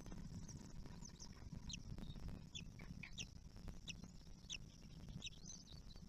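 Bird calling: short, high chirps that slide downward in pitch, about two a second, over a low rumble.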